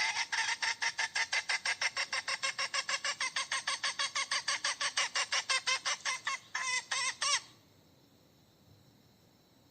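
Hen giving a long, rapid run of repeated calls, about seven a second, ending with a few separate notes after about seven seconds. The calling comes from a hen crouching in the mating squat and calling for a mate.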